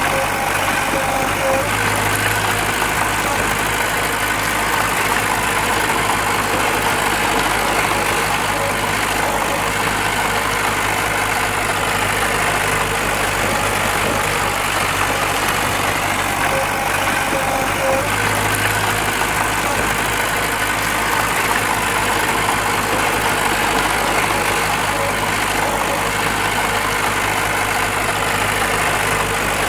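Heavy earthmoving machine's diesel engine running steadily at low revs, its low note shifting slightly about two seconds in and again around eighteen seconds.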